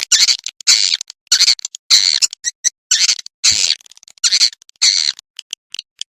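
Edible-nest swiftlet calls played as a roosting lure for a swiftlet house: high, buzzy twittering chirps, each about a quarter second long, repeating roughly every half second, with short sharp clicks between them.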